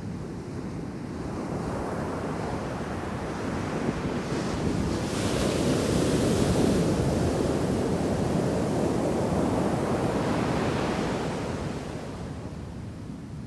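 Ocean waves breaking in a heavy shore break, the surf swelling to a peak midway and washing back down, with wind buffeting the microphone.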